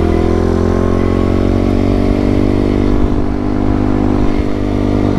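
A 110cc pit bike's single-cylinder four-stroke engine pulling under throttle while riding. Its note rises slowly for about three seconds, then holds steady.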